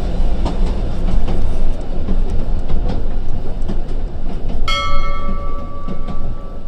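Railway train running, a heavy steady rumble with rapid clicks of wheels on rail joints. About two-thirds of the way through, a bell is struck once and rings on.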